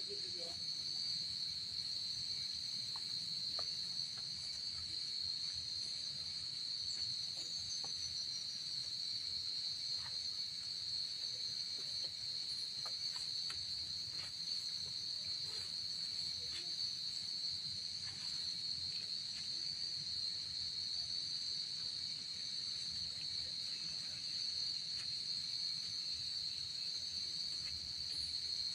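A steady, continuous, high-pitched insect chorus, with a few faint ticks scattered through it.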